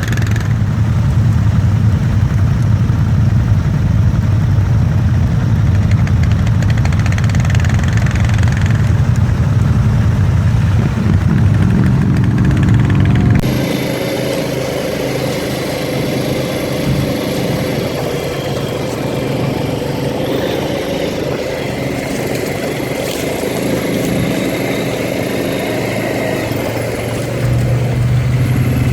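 ATV engine running while riding, a steady low drone. About halfway through the sound changes abruptly to a thinner, higher engine note.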